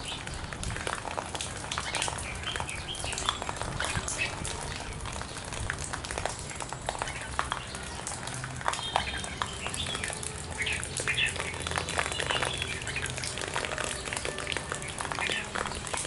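Birds chirping and calling in the tree canopy: a busy run of short chirps and clicks with a few brief whistled notes, over a low steady hum.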